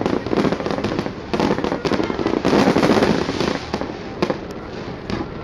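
Fireworks display going off: a rapid, unbroken run of pops and bangs from rising comets and bursting shells, heaviest in the middle and easing a little near the end.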